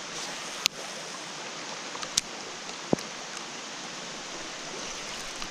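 Steady hiss of rain falling on the lake, broken by three sharp ticks, the first about half a second in.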